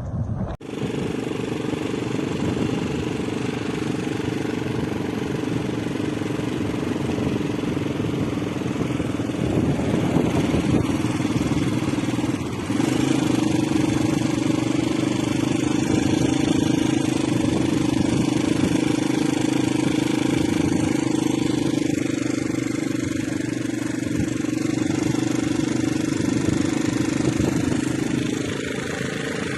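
An engine running steadily with an even pitched hum, stepping up in level about a third of the way through.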